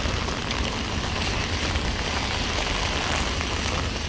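Heavy rain pouring steadily onto hard surfaces, a dense hiss with many small patters of drops.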